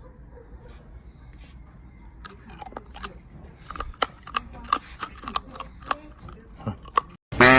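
Close-up eating sounds: scattered sharp clicks and crackles of food and utensils, becoming busier after about two seconds in.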